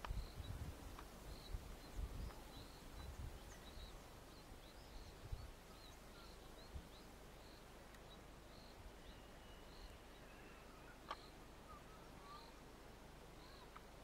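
Quiet open-air ambience: a bird repeating a short high chirp about twice a second, with a few other faint bird notes later on. Low wind rumble on the microphone in the first few seconds.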